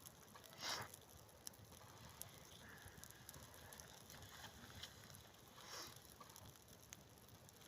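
Faint campfire crackle: scattered small sharp pops from the burning logs, with two brief soft rustles, one about a second in and one near the end.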